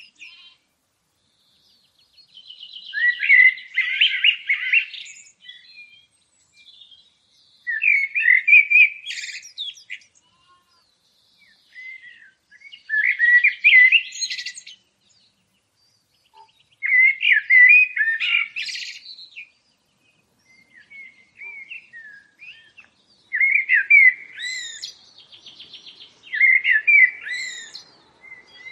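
A songbird singing: about seven warbled phrases of two to three seconds each, some with a fast buzzy trill, separated by pauses of a second or two.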